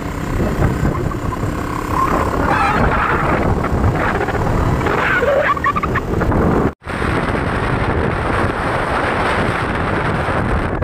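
Wind buffeting the microphone over motorcycle engine and road noise while riding, a dense rumbling rush that cuts out for an instant about two-thirds of the way through.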